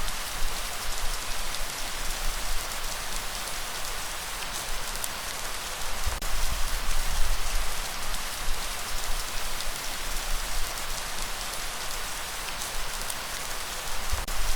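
Steady heavy rainfall, a dense even hiss of drops, with a deep low rumble underneath that swells up and fades back a few times.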